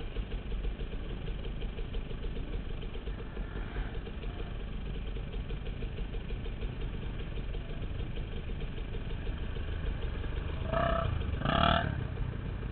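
KTM dirt bike engine running steadily while riding along a dirt trail, heard through a helmet-mounted camera. A short, louder burst comes near the end.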